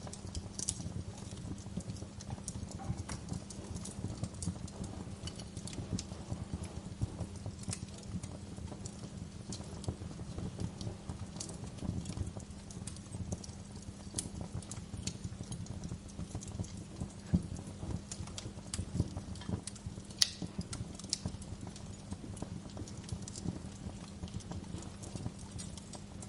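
Wood fire crackling: a steady low rumble under many irregular snaps and pops, with a few sharper pops standing out in the second half.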